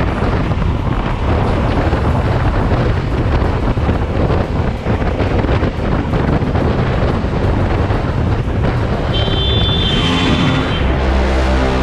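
Wind buffeting a motorcycle camera's microphone over the motorcycle's running engine, a steady rushing noise; music comes in near the end.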